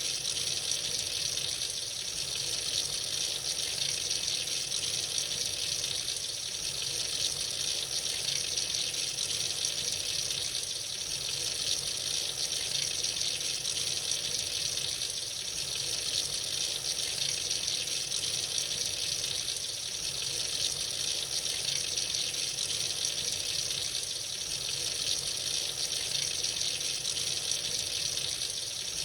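Tap water running freely into a sink in a steady, unbroken stream.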